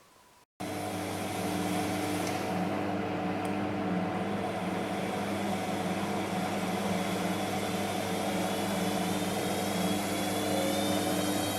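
Bosch MAXX 6 washing machine running, its motor and drum giving a steady hum with hiss, which starts abruptly about half a second in. Near the end a high whine begins to rise as the drum speeds up into the spin.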